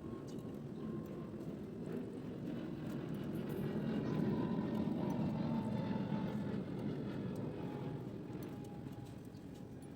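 A motor vehicle passing by, its engine and road noise swelling to a peak midway and then fading away.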